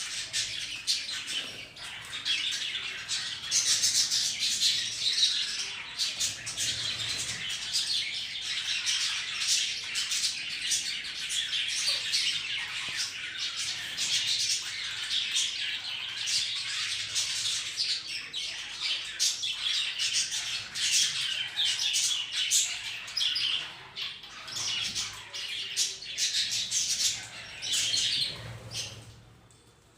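Caged budgerigars and a parrot chattering and squawking, many short calls overlapping without a break, dying away near the end.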